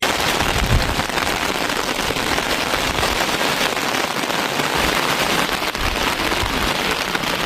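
Steady heavy rain, a dense even hiss, with a few brief low thumps.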